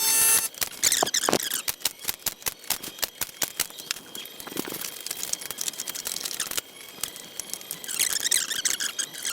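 Busy small metallic clicks and taps, several a second, from hands and tools working clecos and rivets on the thin aluminium skin of a kit-plane flaperon, with a few short high squeaks about a second in and near the end.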